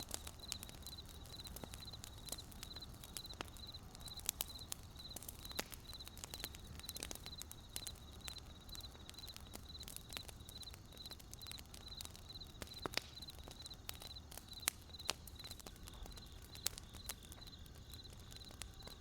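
Wood campfire crackling, with sharp irregular pops from the burning logs, while crickets chirp steadily in a high, evenly pulsed trill about twice a second.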